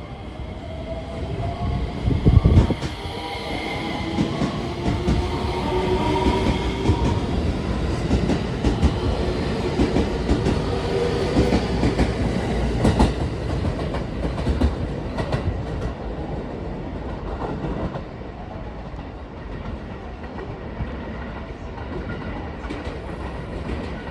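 Electric train pulling away: the traction motors give a whine that rises in pitch as it gathers speed, over rumbling wheels clattering on the rail joints. There is a heavy thump about two and a half seconds in.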